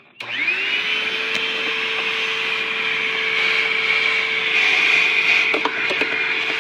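Vacuum cleaner switched on, its motor spinning up with a quick rising whine and then running steadily with a loud hiss, vacuuming dirt out of the empty air filter housing. A few short clicks near the end.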